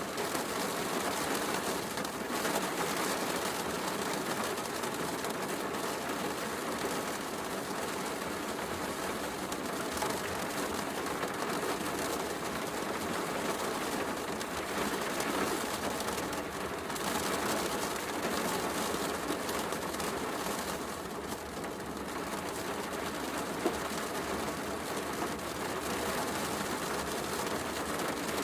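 Steady heavy rain with a fireplace crackling, and one sharper pop from the fire late on.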